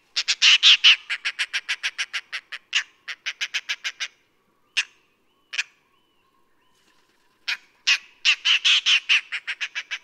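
Oriental dollarbird calling: a rapid chatter of short notes, about seven a second, that thins out about four seconds in. A couple of single notes follow, then a second rapid run begins about seven and a half seconds in.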